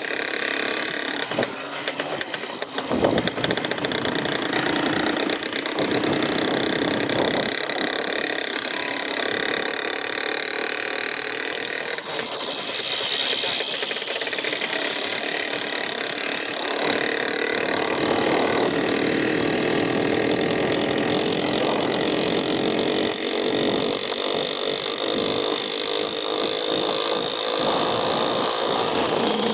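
Motor vehicle engine running steadily, with a brief loud bump about three seconds in.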